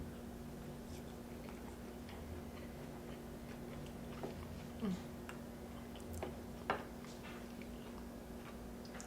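Quiet eating sounds: scattered soft mouth clicks and crunches at irregular intervals, the sharpest about two-thirds of the way in, over a steady low hum.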